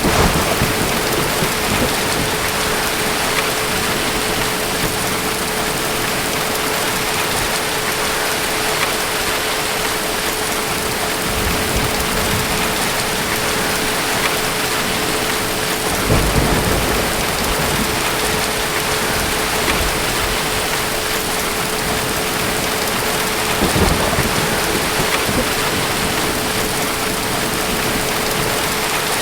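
Steady heavy rain hissing, with distant thunder rumbling low several times: at the start, about halfway, and again near the end.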